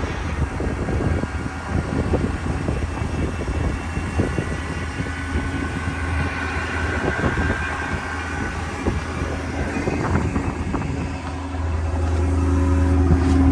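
Ford F550's 6.7L Powerstroke V8 diesel running steadily with a low hum and a rough rattle over it, getting somewhat louder near the end.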